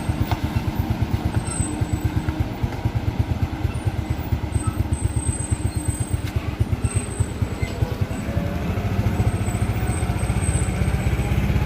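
A vehicle engine running with a rapid, even low pulse, getting louder and heavier about eight seconds in.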